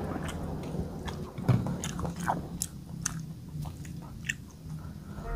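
A person chewing and biting into goat satay, with small wet mouth clicks and smacks scattered through.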